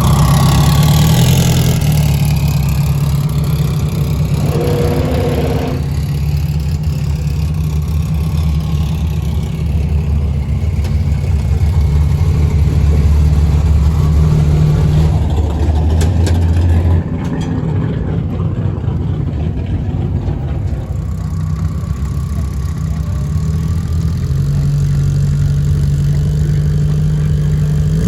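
Car engine idling steadily, its low note shifting in level every few seconds.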